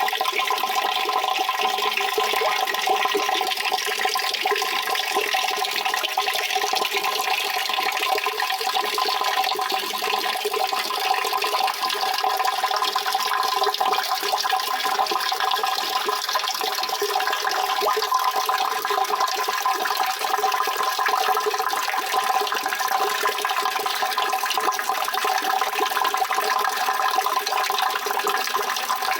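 Steady running water, a continuous even rush with no breaks or changes.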